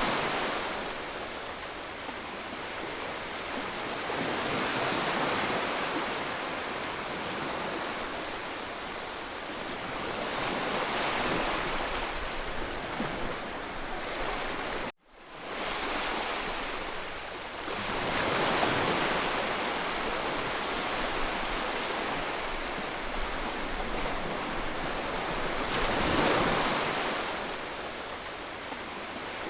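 Sea waves washing onto the shore, the surf swelling and easing every several seconds. About halfway through, the sound cuts out for an instant and comes back.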